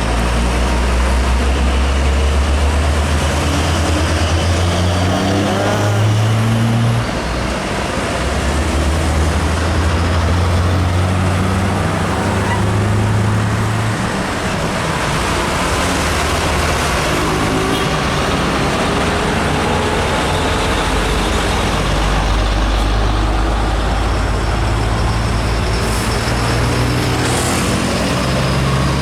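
Heavy diesel trucks hauling container trailers pass on a highway amid traffic. Their engines run loud, and the pitch climbs in steps several times as they accelerate through the gears.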